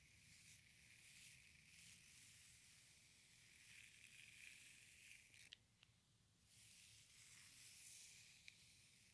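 Faint, soft swishing of hair play: something drawn through hair in slow strokes that swell and fade, with a couple of light ticks.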